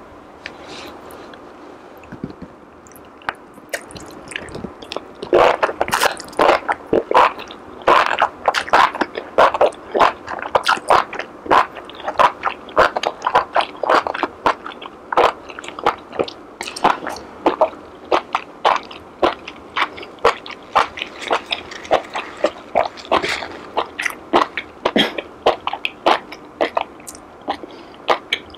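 Close-miked chewing of jelly noodles and enoki mushrooms: a steady run of crisp, crunchy clicks, about two a second, starting about five seconds in after a quieter opening.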